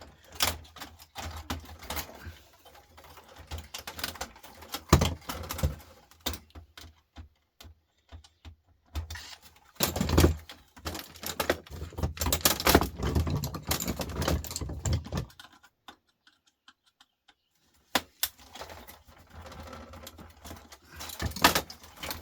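Irregular clicks, taps and rattles of small metal and plastic parts being handled and pulled apart while taking electronics to pieces, busiest around the middle, with a couple of seconds of near silence about two-thirds of the way in.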